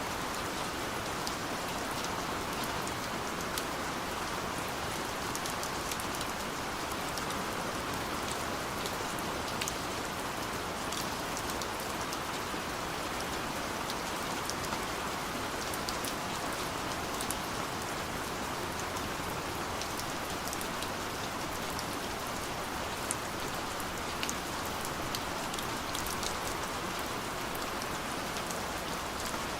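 Steady rain falling, a constant hiss with many small, irregular drop ticks.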